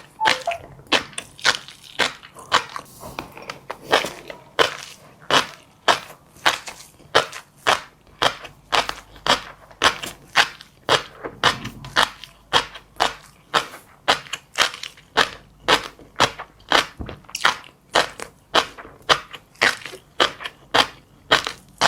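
Close-miked chewing of crunchy seeds: sharp crisp crunches at an even pace of about two a second.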